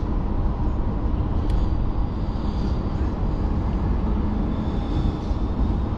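Passenger train running, heard from inside the carriage: a steady low rumble, with a faint high squeal in the middle and a single click about a second and a half in.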